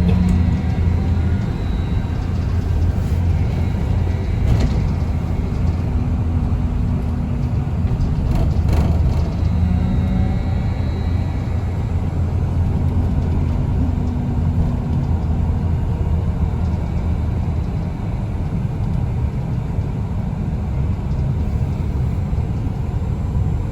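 Cabin noise inside a moving city bus: a steady low rumble of drive and road. A faint steady tone runs under it, and there are two short clicks or rattles, about four and a half and nine seconds in.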